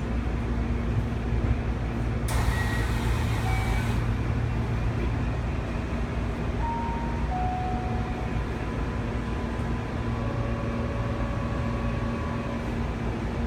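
Keihan 13000-series electric train standing at a platform, its equipment giving a steady hum. About two seconds in there is a burst of air hiss from the door gear, with short chime tones. A falling two-note chime follows about seven seconds in, and longer steady tones come near the end.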